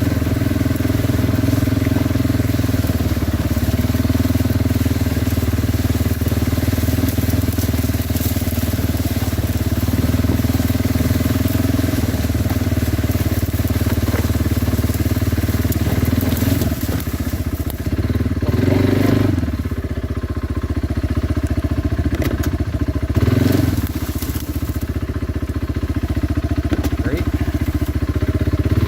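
Kawasaki Brute Force 300 ATV's single-cylinder engine running under steady throttle while riding, then easing off with two brief surges of throttle about two-thirds of the way through.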